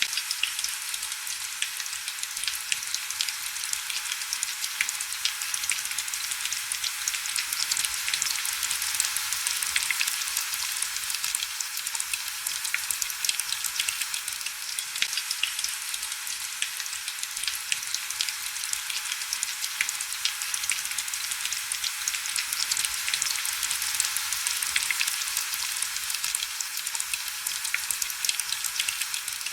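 Heavy rain falling steadily: a dense hiss of countless small drop ticks, high and crackly, with almost no low rumble.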